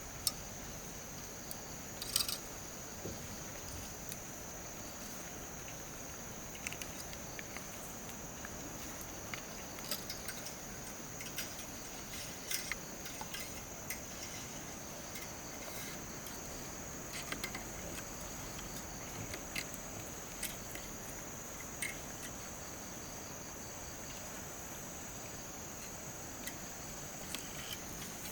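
Insects droning steadily at one high pitch, with scattered light clicks and knocks.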